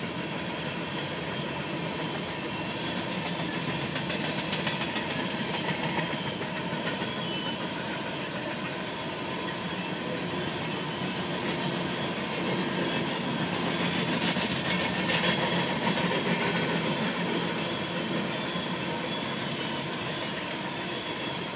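Union Pacific coal train's hopper cars rolling across a steel railway bridge: a steady rumble and clatter of steel wheels on rail. The clatter grows louder about two-thirds of the way in.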